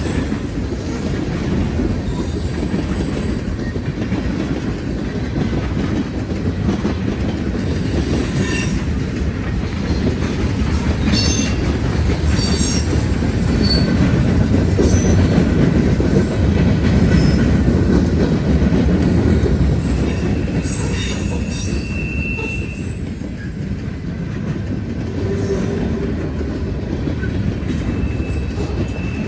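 Norfolk Southern freight train cars rolling past: a steady rumble over the rails, with scattered clicks and short high wheel squeals.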